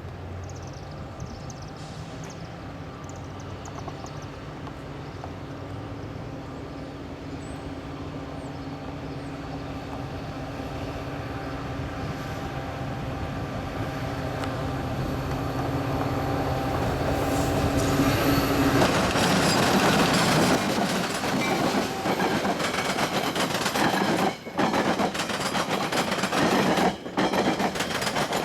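Metra F40PH-2M diesel-electric locomotive, with its EMD 16-cylinder engine, approaching and growing steadily louder with a steady engine tone. About eighteen seconds in it reaches and passes, and the loud rumble and clatter of the train going by takes over.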